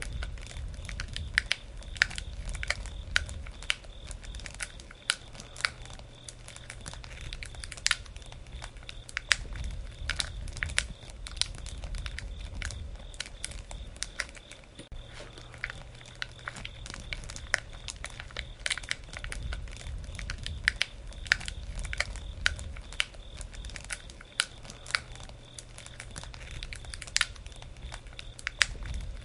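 Campfire burning: irregular sharp crackles and pops from the burning wood over a low, wavering rumble of the flames.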